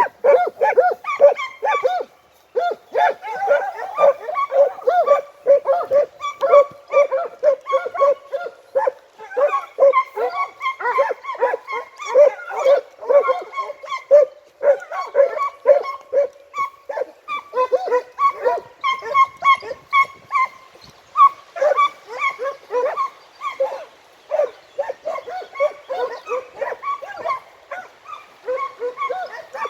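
A pack of segugi scent hounds giving tongue on a hare's scent: many short, overlapping bays and yelps from several dogs, several a second, as they trail the hare towards its form.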